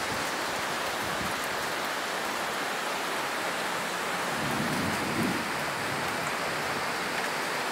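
Heavy rain pouring steadily, with a brief low rumble a little past the middle.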